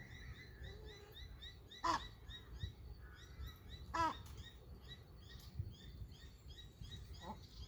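Birds calling: a steady chorus of short, repeated high chirps, with a loud harsh call about two seconds in, another at four seconds, and a fainter one near the end. A low rumble of ambient noise lies underneath.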